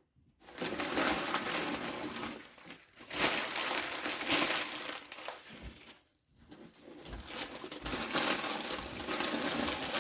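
Packaging crinkling and rustling as it is handled and unwrapped, with a brief pause about six seconds in.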